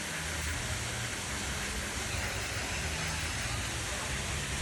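Steady rush of running water at a water-park slide, with a low rumble underneath.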